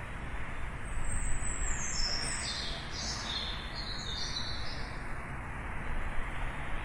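A songbird singing a run of high chirping notes for about four seconds, over a steady low rumble of distant city traffic.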